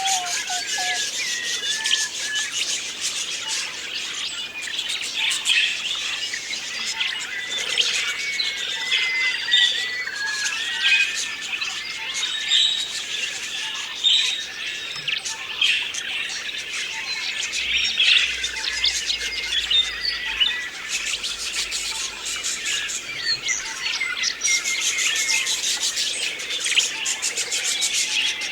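A flock of budgerigars chirping, many short calls overlapping continuously.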